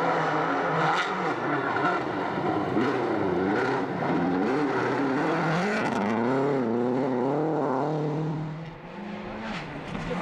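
Rally car engine heard from inside the car at speed on a special stage, its revs rising and falling quickly as the driver works the throttle. Near the end the engine drops off briefly, then pulls again.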